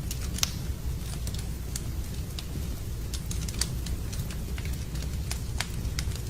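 Wood campfire burning, with irregular sharp crackles and pops from the logs several times a second over a steady low rumble.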